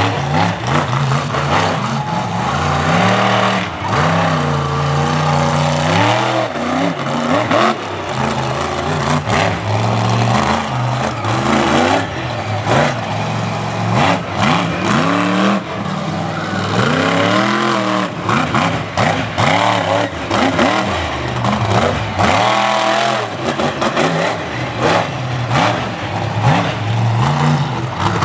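Monster truck's supercharged engine revving hard again and again, its pitch climbing and dropping repeatedly as the throttle is worked.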